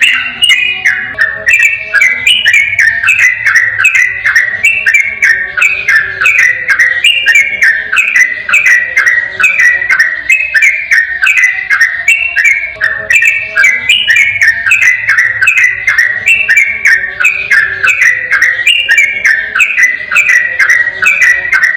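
Yellow-vented bulbul (trucukan) singing a rapid 'ropel' song: an unbroken run of short, clear, downward-sliding whistled notes, several a second, with no pauses.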